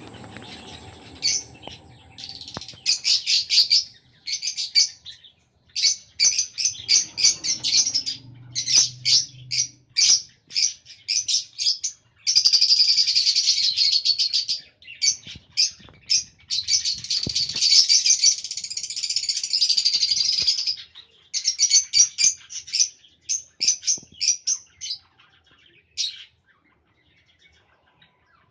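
Pet lovebirds chirping: quick runs of high-pitched chirps in bursts, broken by longer stretches of continuous chatter, then falling almost quiet near the end.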